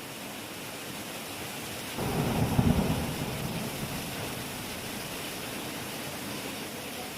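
Heavy rain falling steadily, with a clap of thunder about two seconds in, a deep rumble that swells suddenly and then fades away over several seconds.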